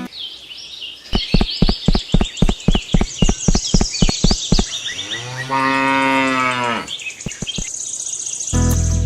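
A cow gives one long moo lasting about a second and a half, over birds chirping. Before it comes a quick run of knocks, about five a second, for some three seconds.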